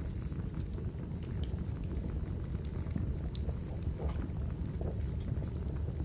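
Small wood campfire burning, with scattered sharp crackles and pops over a steady low rumble.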